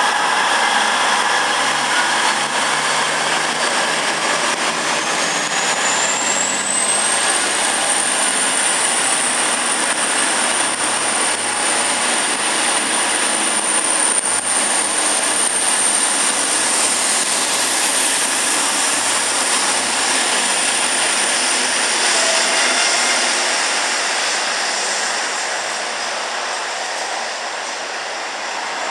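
A V/Line VLocity diesel railcar train running past a station platform, with a steady rumble of engines and wheels. A thin high whine climbs over a few seconds, holds for about ten seconds and fades, and the whole sound eases off near the end as the train draws away.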